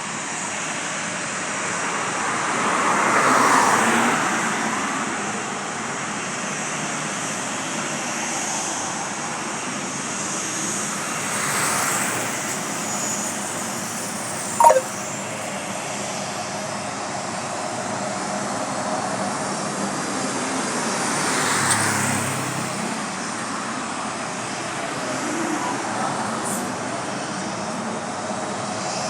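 Distant jet engine noise from a Boeing 737-700's CFM56-7B turbofans: a steady rush that swells and eases three times. About halfway through there is one brief, sharp falling chirp.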